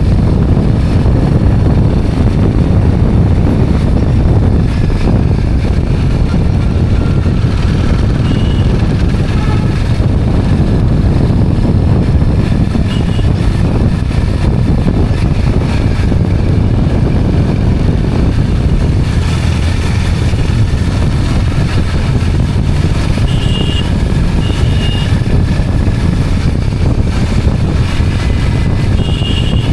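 Steady rumble of a motorised two-wheeler being ridden, thick with low road and wind noise. A few short high beeps sound now and then.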